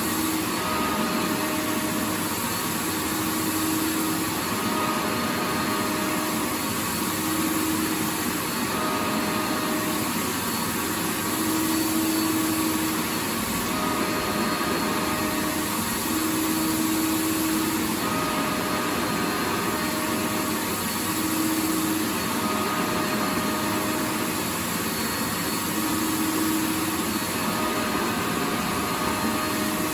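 Vacuum cleaner motor running continuously: a steady, dense rushing noise with a faint motor whine that comes and goes every few seconds.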